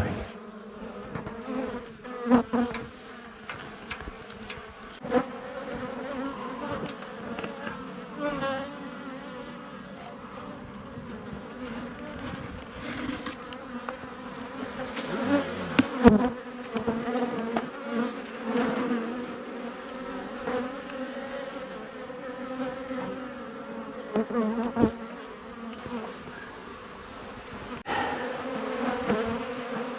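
Honeybee colony buzzing in a steady, full hum as its nest in a house wall is opened up during a cutout, the bees disturbed. A few sharp knocks break through now and then, the loudest about halfway through.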